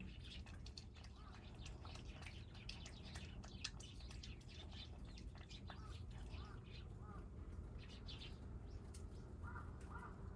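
Stray kittens eating dry food: a run of faint, quick crunching clicks, with a few short bird chirps about six seconds in and again near the end.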